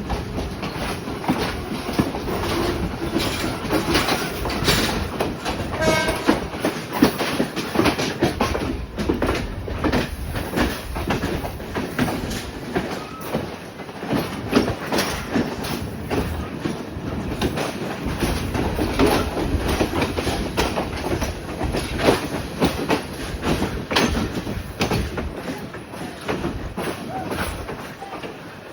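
Diesel train running along the track, its wheels clacking over rail joints above a steady rumble. A short pitched tone sounds about six seconds in.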